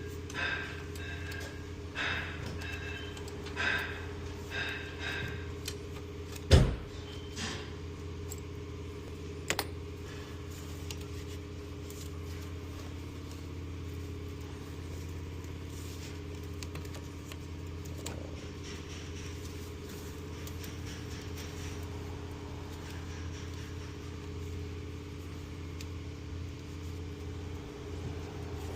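Hand tools and metal parts clinking several times, with a sharp knock about six seconds in and another a few seconds later. A steady low hum runs under it all, then only the hum remains.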